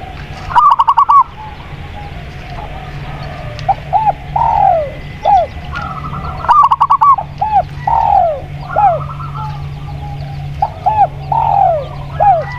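Spotted dove and zebra dove calling against each other. Twice there is a quick run of about six clipped notes. Between and after the runs comes a string of short coos, each sliding downward in pitch.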